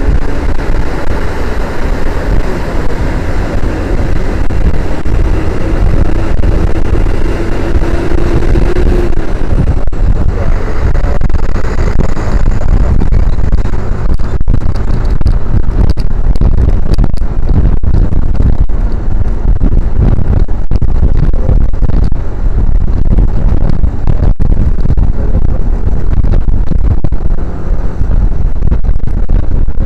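Motorcycle riding at road speed, heard through an action camera: steady engine and road rumble under heavy wind buffeting on the microphone. A faint engine tone rises slightly over the first nine seconds as the bike accelerates, then is lost in the wind.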